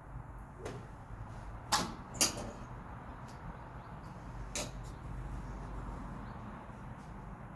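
Golf clubs striking balls: sharp clacks, two in quick succession about two seconds in and another about four and a half seconds in, over a low steady hum.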